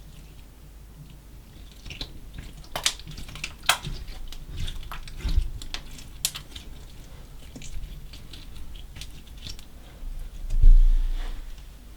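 Slime mixed with small coloured particles being squished and worked by hand: scattered sticky clicks and crackles. A single low thump about eleven seconds in is the loudest sound.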